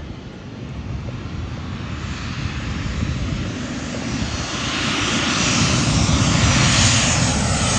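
Jet airliner flying low overhead, its engine roar building steadily louder, with falling tones coming in near the end as it passes.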